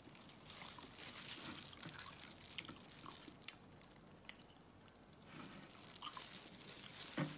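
Faint biting and chewing of a thick piece of raw salmon, with small mouth clicks scattered through.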